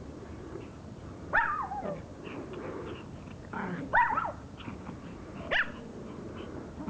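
Dogs play-fighting: three loud, high barks with a bending pitch, about a second in, around four seconds and near the end, with lower growling between them.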